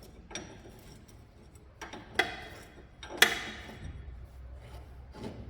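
Metal hand tools clinking against metal while working on a shock absorber bolt: a few light clicks and two sharp ringing clanks a second apart, the second the loudest.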